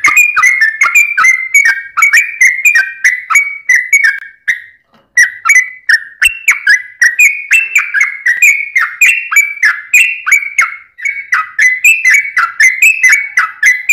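Yellow-vented bulbul (trucukan) singing fast, bubbly whistled phrases almost without a break, several notes a second, with one short pause about five seconds in.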